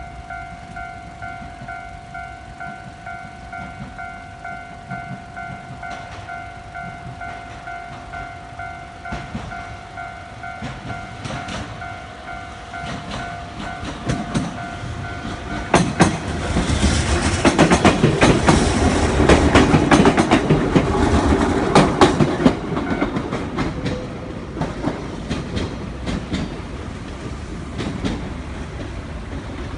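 Japanese level crossing warning bell ringing steadily, then a JR Kyushu train passing over the crossing about halfway in, its wheels clattering over the rail joints for about six seconds before fading.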